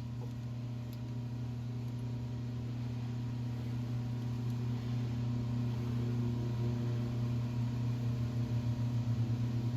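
Metal lathe running under power during a turning pass, a steady mechanical hum that grows slightly louder and takes on a wavering pulse near the end.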